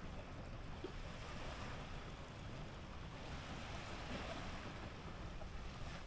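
Surf washing on the beach with wind buffeting the microphone, a steady rushing noise with an uneven low rumble.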